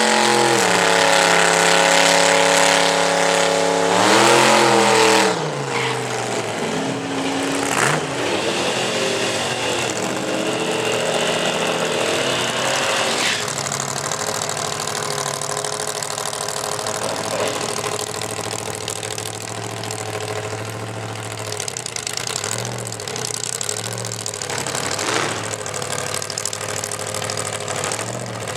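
Supercharged 355 cubic-inch small-block Chevy V8 in a Ford Ranger drag truck, held at high revs for the first few seconds with one more rise about four seconds in. It then drops to an uneven idle with a few brief blips of the throttle.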